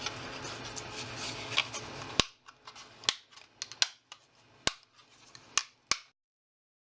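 A hand cutting tool snipping through the thin plastic hair strands of a 3D print: about six sharp snips, roughly half a second to a second apart, over a low steady hiss. The sound cuts off abruptly about six seconds in.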